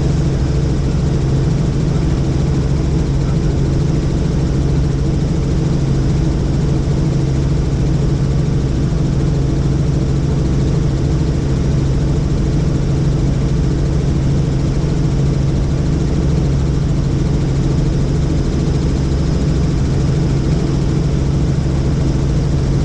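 Helicopter turbine and rotors running steadily in flight, heard from on board: a loud, even drone with a strong low hum.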